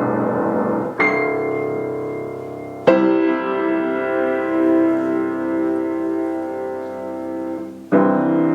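Piano playing a slow prelude: full chords struck about a second in, again about three seconds in and near the end, each left to ring and slowly fade.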